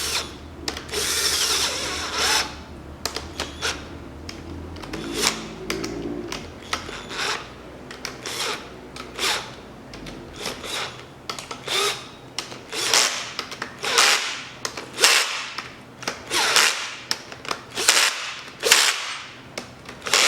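Ratchet wrench clicking through short strokes as camshaft bearing cap bolts are tightened a little at a time. The strokes come as a long run of sharp bursts, quicker and louder in the second half.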